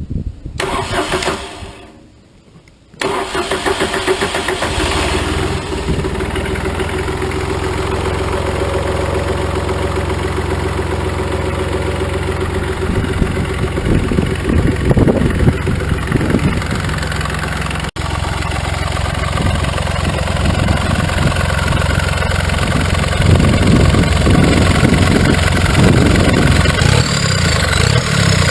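Smart CDI OM660 three-cylinder turbodiesel in a motorcycle being started: a brief burst of cranking, a short pause, then the engine catches about three seconds in and settles into a steady diesel idle.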